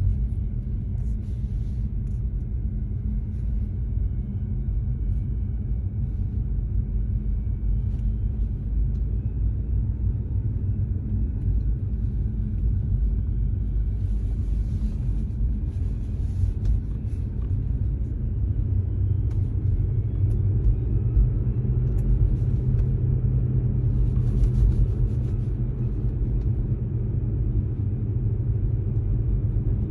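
Tesla Model 3 driving: a steady low road and tyre rumble with a faint slowly rising whine, and a few short, faint high hissy sounds.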